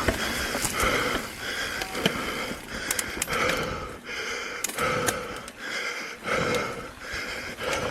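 Mountain biker breathing hard and fast, short hissy breaths in and out at about one to one and a half a second, with sharp clicks and rattles from the bike over rough trail.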